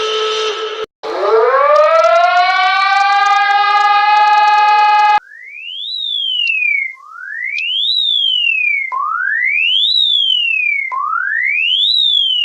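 Emergency alarm sirens: a steady buzzing alarm tone cuts off just under a second in, then a siren winds up in pitch and holds for about four seconds. It cuts to a thin electronic siren that sweeps up quickly and slides back down, repeating every two seconds, four times.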